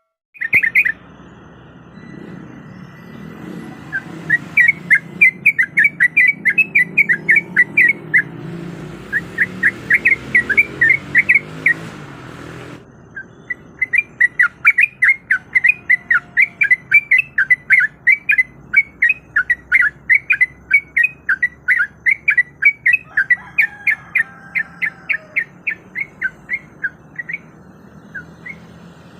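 Yellow-vented bulbul (trucukan) singing: long runs of quick, chattering notes in bursts with short gaps, the longest run starting about halfway through. A low background hum under the first half stops suddenly.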